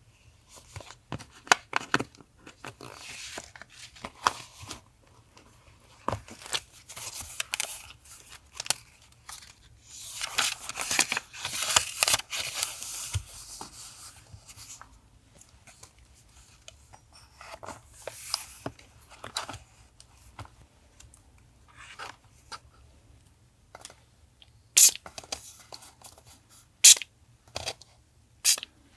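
Paper being tearing and rustled while making a collage, in irregular stretches, with a few sharp clicks near the end.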